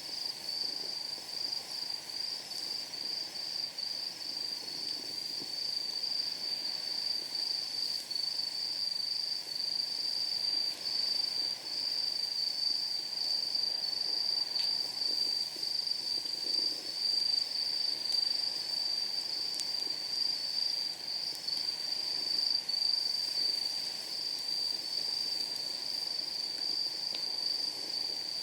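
Night insects trilling in one steady, high, finely pulsing chorus, over the soft low rush of a wood fire burning in a steel fire pit. Burning wood pops faintly a few times, about halfway through and near the end.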